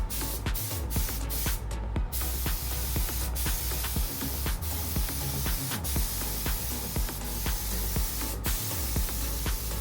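Steady hiss of a spray gun applying primer, over background music with a steady beat.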